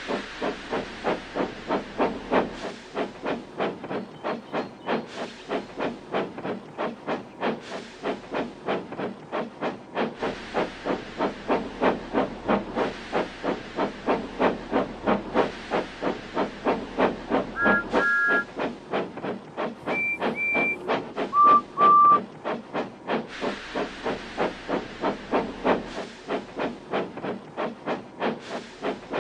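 Steam locomotive puffing along in an even, rapid rhythm of exhaust chuffs. Around the middle come three short whistle toots at different pitches: first a two-note toot, then a higher one, then a lower, louder one.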